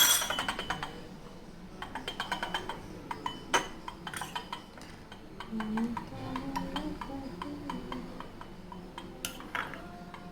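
Cutlery and dishes clinking: a string of small taps and clicks, loudest at the start, as bread jamuns soaked in sugar syrup are handled in a bowl.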